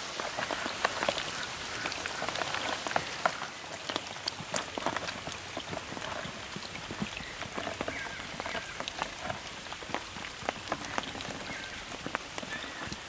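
Rain falling on a pond's surface: a steady patter of many small drops.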